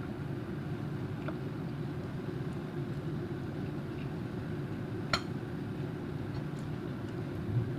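A steady low hum with one sharp, ringing clink of dishware about five seconds in and a fainter tap earlier.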